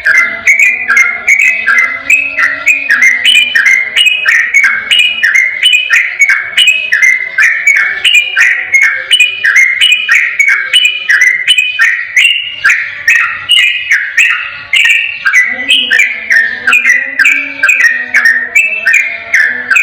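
Sooty-headed bulbul singing a long, unbroken ropel song: a rapid run of short, clear whistled notes, several a second, with no pauses.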